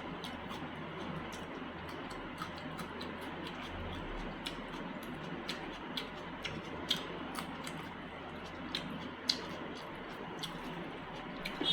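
Close-miked chewing: irregular small wet mouth clicks and smacks, a few louder ones about seven and nine seconds in, over a steady hiss.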